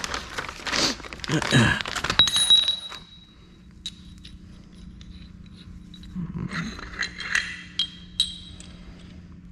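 Metal bolts and suspension hardware clinking and clanking as they are handled. There is a busy stretch in the first three seconds and another cluster of clinks about six to eight seconds in, over a faint steady hum.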